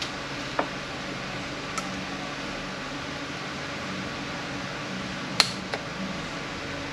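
A steady hum of the room, with a few sharp clicks of metal transmission parts being handled, the loudest about five and a half seconds in.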